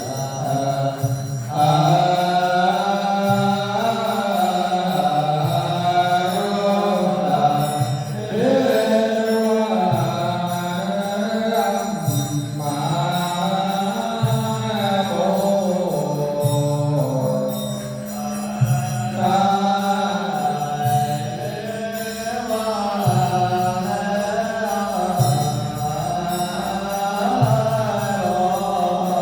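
Buddhist chanting, sung in long held notes that move up and down in a steady melodic line without a break.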